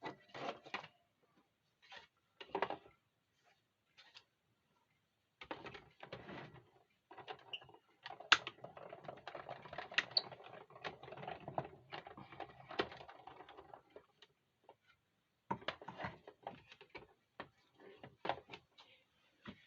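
Hand-cranked die-cutting and embossing machine being turned, its plates rolling a steel die through the cardstock with a steady clicking rattle from about five seconds in until about fourteen seconds. Scattered clicks and taps of handling come before and after.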